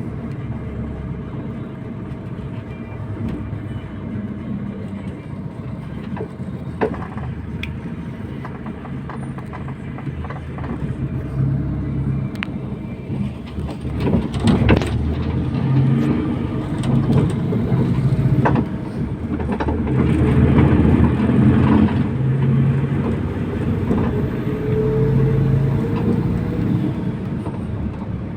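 MAZ 241.030 bus heard from inside the passenger cabin while moving: the diesel engine runs under the floor with scattered rattles and knocks from the body. The engine gets louder and its note shifts about halfway through, as it pulls harder.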